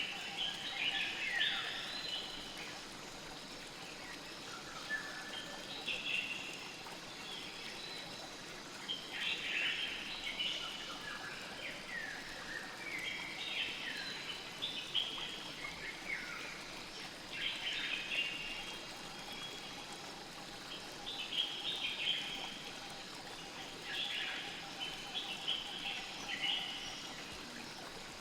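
Birdsong in short chirping phrases every few seconds over the steady rush of a flowing river.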